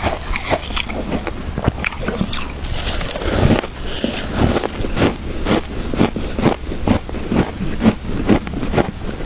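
Close-up chewing of crunchy frozen shaved ice, a steady run of sharp crunches about two a second, with a denser crunching stretch around three seconds in.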